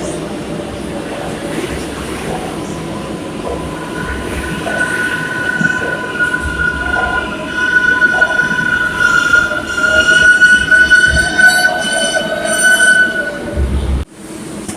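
Kawasaki R142A subway train running on the rails, with steel wheels squealing in a high, wavering tone that sets in about four seconds in and grows louder, then cuts off abruptly near the end.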